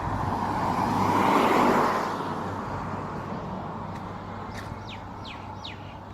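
A car passing by, its noise swelling to a peak about a second and a half in and then fading away. Near the end a bird gives three or four quick falling chirps.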